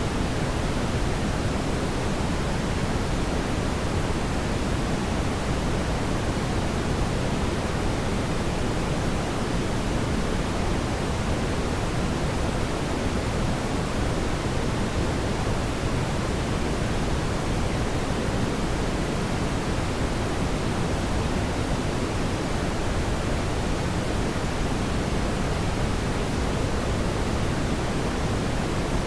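Steady, even rushing noise, fuller in the low end, with no crackles or pops and no change in level.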